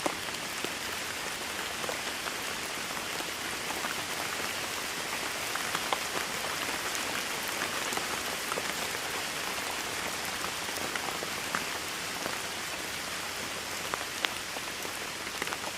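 Steady heavy rain falling on a hard surface: an even hiss with many sharper individual drop hits scattered through it.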